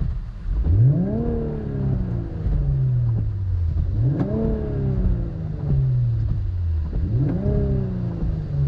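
Infiniti Q50 Red Sport 400's 3.0-litre twin-turbo V6 free-revved three times in park, heard from inside the cabin, with AMS lower downpipes on the stock exhaust. Each rev climbs quickly and falls back slowly to idle.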